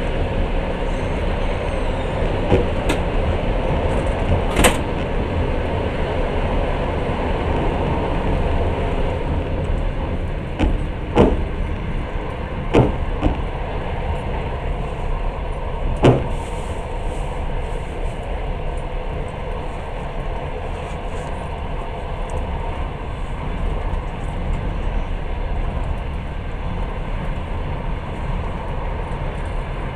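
Steady rumble of a moving passenger train heard from inside the carriage, with a faint steady hum and a few sharp knocks scattered through it.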